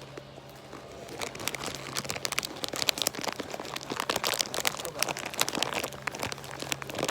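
Dry leaves and twigs crunching and crackling underfoot, a dense run of irregular crunches starting about a second in.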